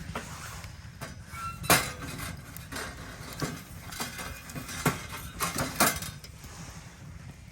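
A series of sharp clinks and knocks, about seven spread over four seconds, with the loudest near the start.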